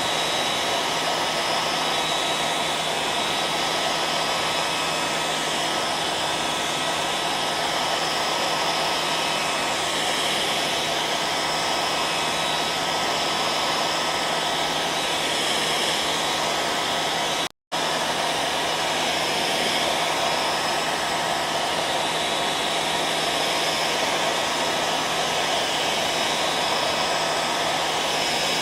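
Hair dryer running steadily: an even rushing blow with a constant motor hum under it. The sound cuts out completely for a split second about two-thirds of the way through, then carries on unchanged.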